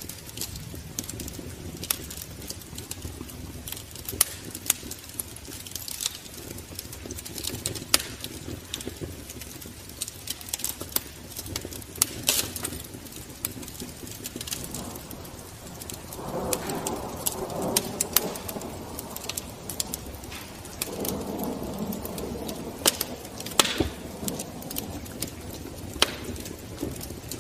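Wood fire crackling in a fireplace, with irregular sharp pops over a steady hiss. Two longer, lower sounds of a couple of seconds each come in past the middle.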